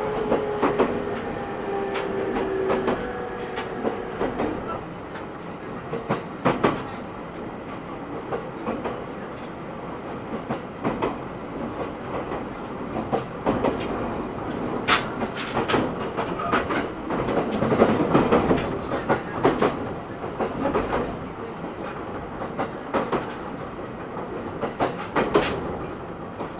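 Cabin running sound of an E127 series 0 electric train: wheels rumbling on the track with repeated clicks from rail joints. In the first few seconds there is a falling whine, and there is a louder rush of running noise about two-thirds of the way through.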